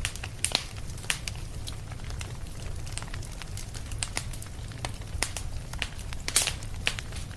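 Wood fire crackling, with irregular sharp pops over a steady low rumble; the biggest pop comes a little after six seconds in.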